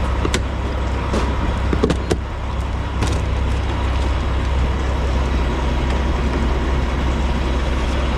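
Steady low rumble of an idling diesel semi-truck engine at a fuel pump, with a few short clicks and knocks in the first three seconds.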